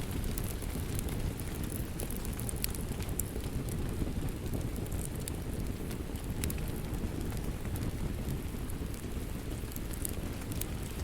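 Wood fire crackling: a steady low rush of flames with scattered sharp pops and snaps.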